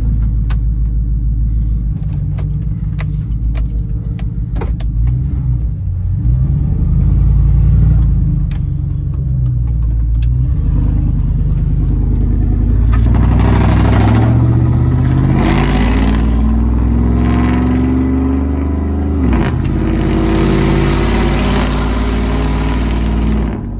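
2005 Chevy Silverado's 5.3-litre V8 through a catless single 3-inch Magnaflow Magnapack exhaust, rumbling low with a few light clicks, then accelerating hard: the exhaust note climbs in pitch, drops at a gear change about two-thirds of the way through, climbs again and falls away near the end.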